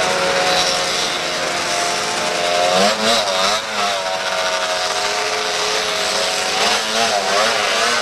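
Two-stroke snowmobile engines running with a steady drone, the throttle blipped about three seconds in and again about seven seconds in, so the pitch wavers up and down.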